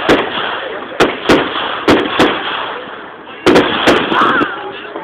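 Fireworks display: a quick, irregular series of about seven loud bangs from aerial shells bursting, with a gap of about a second before the last pair.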